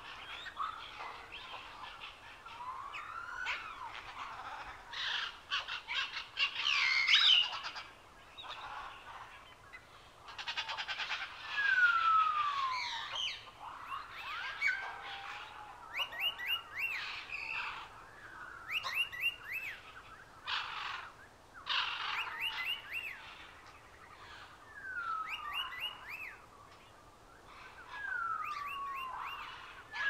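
Bird calls: repeated falling whistles, quick runs of short rising chirps, and a few harsh squawks, the loudest about 7 and 12 seconds in.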